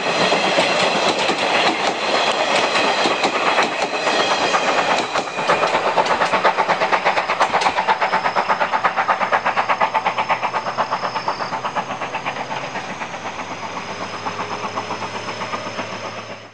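Passenger coaches of a C11 steam-hauled train rolling past and clattering over the rail joints. After about five seconds a steady rhythmic beat, roughly five a second, fades slowly as the departing train draws away.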